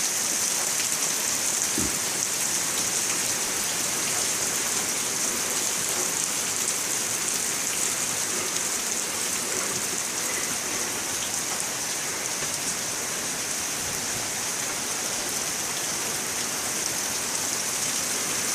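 Heavy rain pouring down in buckets: a steady, even hiss of a downpour.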